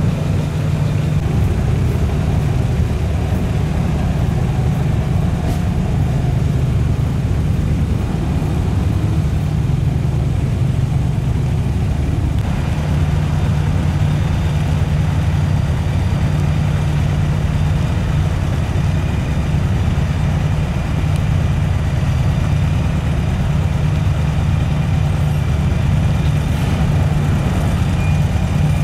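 Engines of classic 1950s American custom cars running at a low, steady idle as they roll slowly past one after another.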